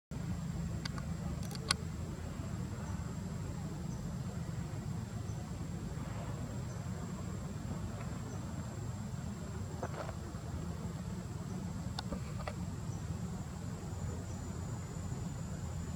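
Insects giving a steady, thin high-pitched drone over a low steady rumble, with a few faint sharp clicks.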